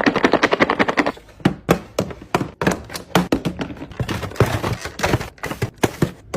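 Containers and food items being handled and set down in a fridge: a quick rattle of clicks in the first second, then a string of separate taps and thunks.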